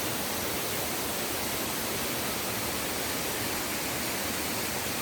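Steady rushing of a waterfall, an even noise with no breaks or changes.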